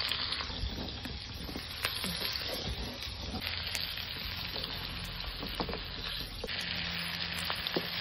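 Sliced red onions and green chillies sizzling in hot oil in a steel wok, a steady hiss with scattered small pops and crackles.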